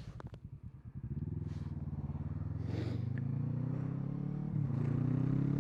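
Kawasaki Versys 650's parallel-twin engine accelerating hard from low speed, its note rising steadily over several seconds after a brief low, uneven spell.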